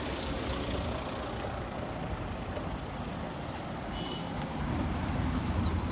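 A heavy truck's engine running with a steady low rumble, growing a little louder near the end.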